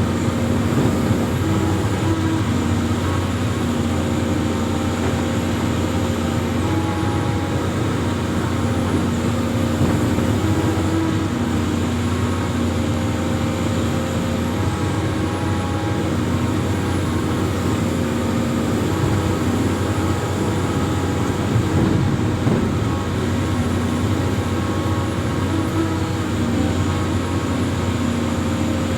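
Amphibious excavator's diesel engine running steadily, with a low hum and a higher humming tone that steps up and down in pitch every few seconds.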